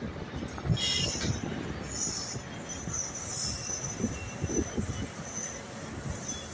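Passenger express train running on the rails, with a low uneven rumble and knocking. Wheels squeal in high tones about a second in and again between two and four seconds.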